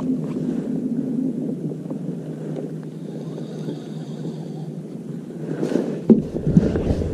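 Kayak moving on the water: a steady low rush of water and wind noise, with a couple of sharp knocks about six seconds in.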